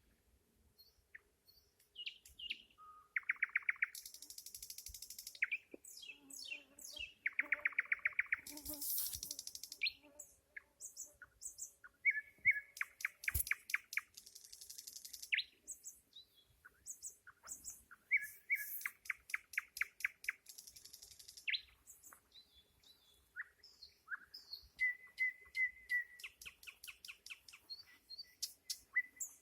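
A nightingale singing: a string of separate phrases a second or two long with short pauses between them, many of them fast runs of repeated notes, others high and hissy.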